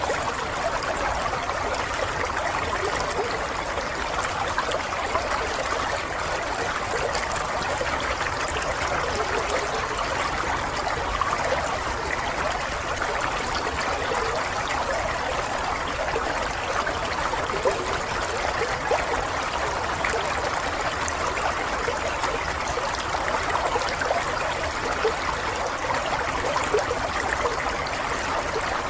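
Water running and trickling steadily, like a small stream, with a constant bubbling splash.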